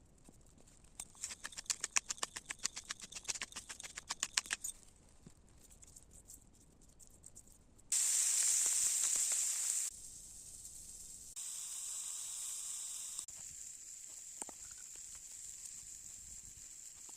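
Meat sizzling on a campfire grill, heard as hissing that starts and stops abruptly in several cuts, loudest about eight seconds in and fainter and steady near the end. Before it, a run of quick clicks and crackles for about four seconds.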